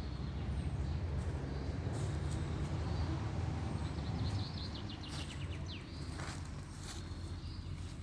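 Car engine running with a steady low hum, which falls away about halfway through. After that, birds chirp a few times over a quieter background with a few sharp clicks.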